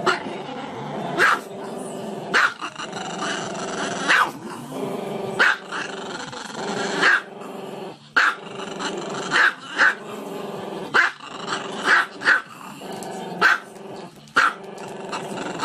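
Small black-and-tan dog howling with its muzzle raised: a drawn-out, wavering howl broken by sharp yips roughly once a second.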